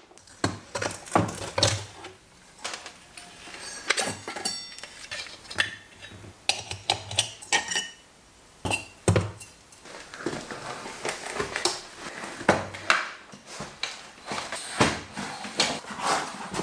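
Metal tools and parts clinking and knocking in irregular, uneven taps, with short metallic rings, as a moped is worked on by hand.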